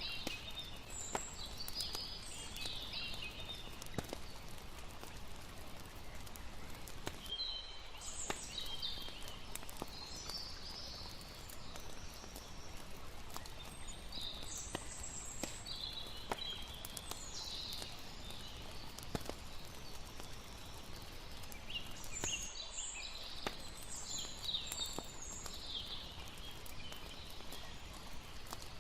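Layered campfire-and-water night ambience: a steady hiss of lapping water, scattered crackling pops from a campfire, and bursts of high chirping calls from birds or insects every few seconds.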